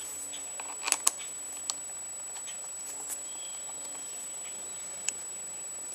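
Light metallic clicks and taps from fitting an aluminium clutch lever onto its handlebar perch: a few scattered ticks, two close together about a second in and single ones later, over a faint steady high whine.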